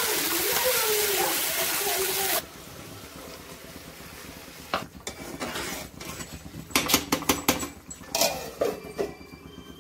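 Tomato purée sizzling in hot oil in a kadai as it is stirred, a loud steady hiss that stops abruptly about two and a half seconds in. Then scattered clinks and knocks of steel utensils and pots, in a cluster around seven to nine seconds in.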